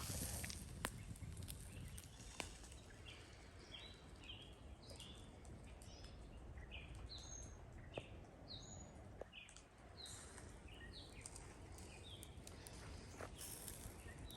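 Faint bird chirping: many short, high notes, some sliding up or down, repeated irregularly from a few seconds in, over a low rumble of outdoor background noise, with a few sharp pops or clicks.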